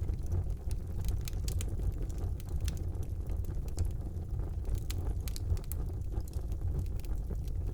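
Wood fire burning in a fireplace: a steady low roar of the flames with frequent sharp, irregular crackles and pops from the burning wood.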